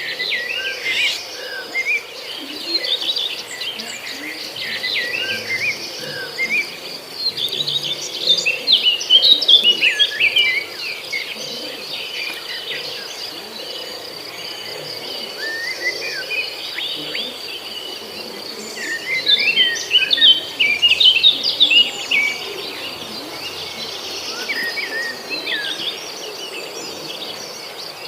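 Small birds chirping and twittering in quick clusters of short notes, busiest about eight and nineteen seconds in, over a steady high-pitched insect drone.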